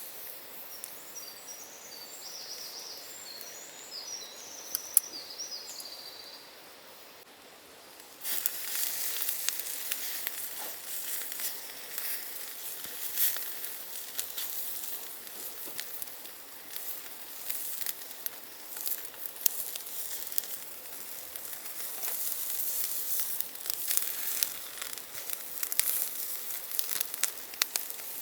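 A few seconds of birdsong, then about eight seconds in a steady sizzling with many small crackles starts suddenly: food frying on the heat.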